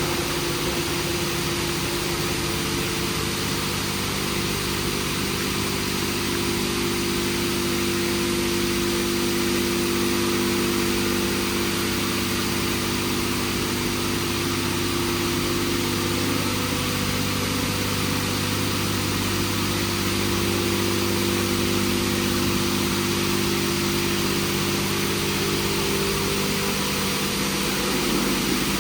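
WashTec SoftCare² Pro rollover car wash running through a wash cycle: a steady hum of pumps and motors under an even hiss of water spray. The hum's tones shift slightly about halfway through and again near the end.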